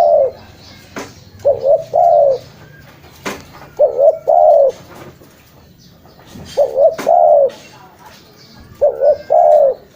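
Spotted dove (tekukur) cooing. It repeats one phrase of two short coos followed by a longer, drawn-out coo, about every two and a half seconds, four times over. A few sharp clicks fall between the phrases.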